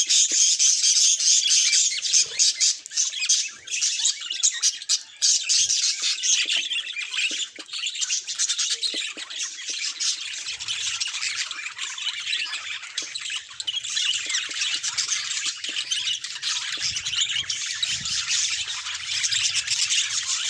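Budgerigars chattering and squawking without pause: a dense, busy warble of overlapping chirps and trills.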